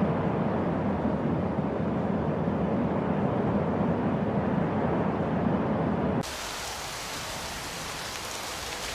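Steady rushing noise of water, strongest low down, that cuts off abruptly about six seconds in to a quieter, thinner hiss.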